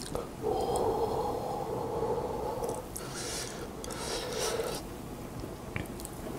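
Close-miked eating sounds from someone chewing a mouthful of instant yakisoba noodles, with two short breathy hisses of air about three and four and a half seconds in.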